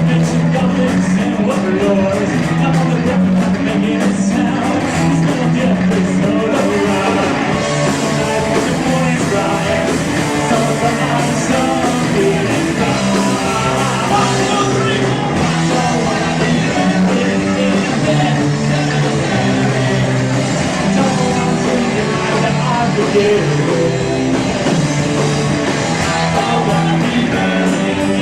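Rock band playing live, loud and continuous, with guitar and singing over a steadily moving bass line.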